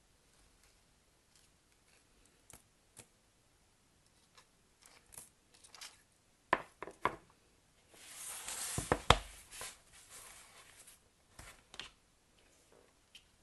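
Hands unpacking soap bars: scattered light taps and clicks of packaging, a few sharp knocks, and a second or so of rustling and scraping about eight seconds in, with hard knocks inside it.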